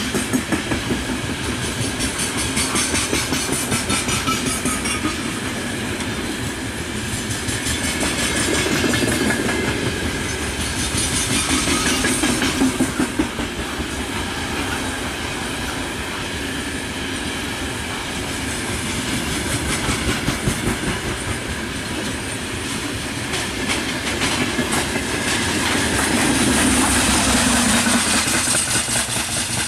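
Open gondola wagons of a long freight train rolling past, their wheels clattering over the rail joints in a repeating clickety-clack over a steady rumble.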